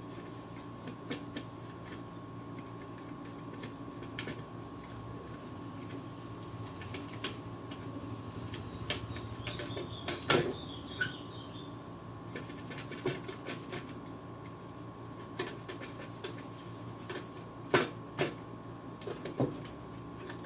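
Small brush scrubbing dust off the opened plastic parts of a PS3 console, with scattered light ticks of handling and a few sharper knocks about halfway through and near the end.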